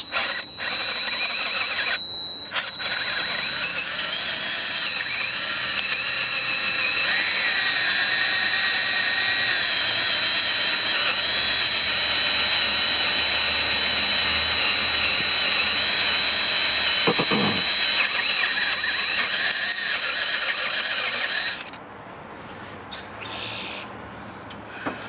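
Power drill boring into metal on a Mazdaspeed 6 cylinder head, the bit giving a steady high-pitched whine. It pauses twice briefly in the first few seconds, then runs continuously until it stops near the end.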